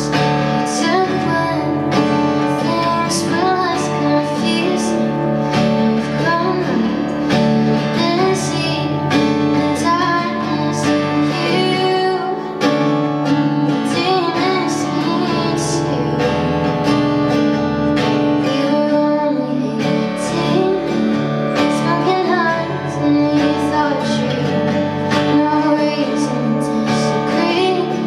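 A woman singing a pop song live to a strummed acoustic guitar.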